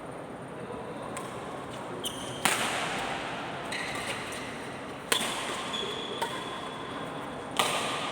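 Badminton rackets striking the shuttlecock in a doubles rally: three sharp hits about two and a half seconds apart, each ringing briefly in the hall, with a few short squeaks of shoes on the court floor between them.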